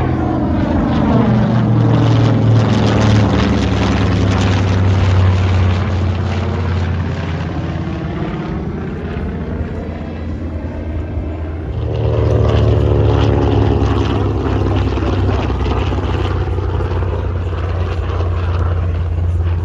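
Grumman Avenger's big radial piston engine droning past in two low passes, each swelling and then fading, with a sweeping, phasing whoosh as it goes by.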